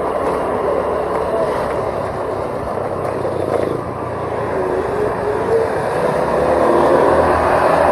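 Steady travel noise of a moving vehicle on the road: engine and road and wind noise, growing a little louder near the end.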